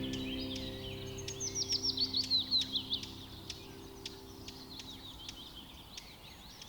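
Birds singing and chirping, with a fast trill of about a dozen notes falling in pitch from about one to three seconds in, then sparser chirps. Background music fades out at the start.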